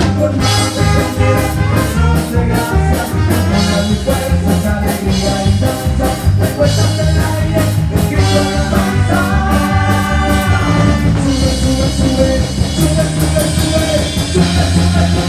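Live band music with drum kit, bass and other instruments playing at a steady beat, with some singing.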